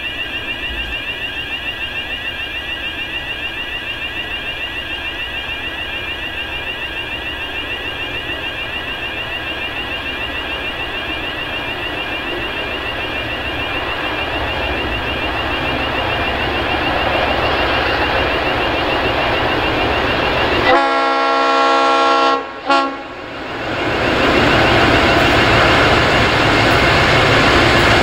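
Electronic warning bells ring rapidly and steadily while an approaching diesel-hauled freight train grows steadily louder. About three-quarters of the way through, the lead locomotive, a G-class diesel, sounds its horn for about two seconds.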